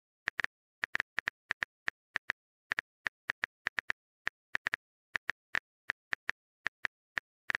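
Phone keyboard typing sound effect: a steady run of short, crisp taps at an uneven pace, about four a second.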